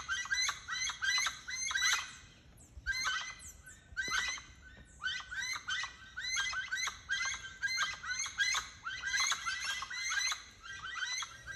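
A large, long-tailed bird screeching loudly from a treetop: harsh calls repeated several times a second in long runs, broken by short pauses.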